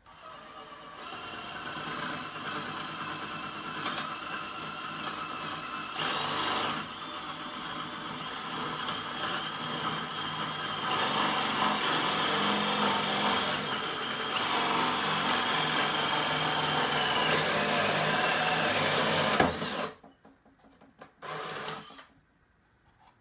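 Electric drill boring out the entrance hole in a cedar birdhouse front. The motor runs steadily with a whine for about twenty seconds, gets louder about halfway through, then stops abruptly.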